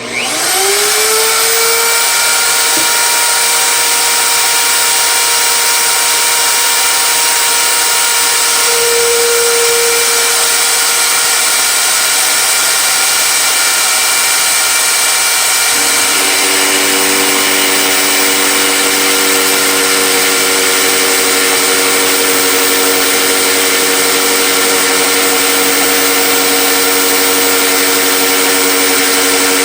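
Handheld electric router starting and spinning up to full speed, then running steadily while cutting a groove in a wooden fence. Its pitch pattern shifts about halfway through.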